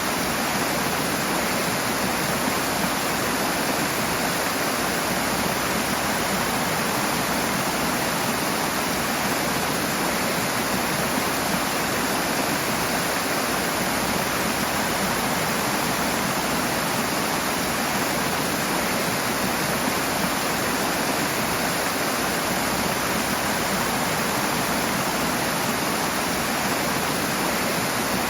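Rushing water: a steady, loud, even rush of fast-flowing stream or waterfall water.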